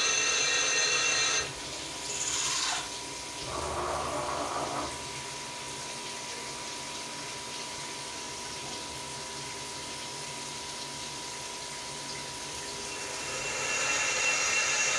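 CNC milling machine: the spindle's steady multi-tone whine cuts off about a second and a half in. A short hiss and a brief watery gush follow, then a faint steady hum. The whine builds up again near the end.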